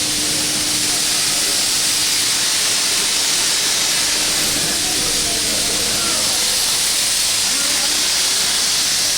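Steam locomotive blowing off steam: a loud, steady hiss. The engine is a new oil-fired (high-speed-diesel-fired) steam locomotive built for the Nilgiri Mountain Railway.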